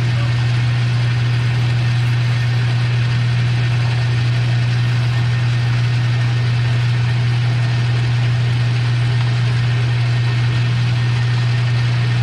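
Metal lathe running steadily with a strong constant hum while a steel hinge pin is parted off; the motor is switched off at the very end and the sound drops away suddenly.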